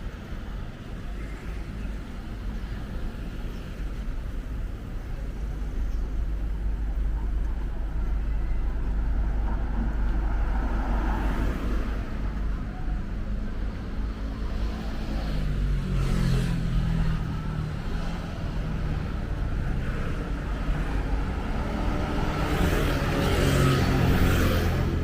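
City street traffic: a steady rumble of motor vehicles, with several cars passing close by, the loudest just before the end.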